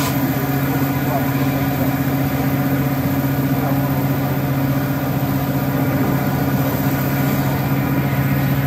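Diesel regional train running along the line, its engine giving a steady drone made of a low hum and several higher steady tones, mixed with the rush of the moving train.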